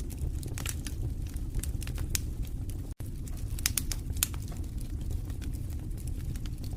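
Wood fire in a fireplace crackling: irregular sharp snaps and pops over a steady low rumble of burning. The sound cuts out for an instant about three seconds in.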